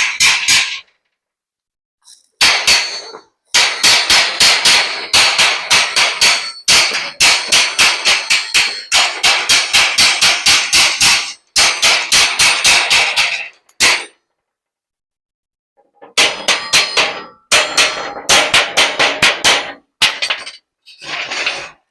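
Hammer striking metal in quick runs of ringing blows, about four to five a second, broken by two short pauses.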